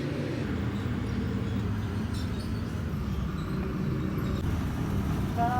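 Maruti Suzuki K-series petrol engine idling steadily.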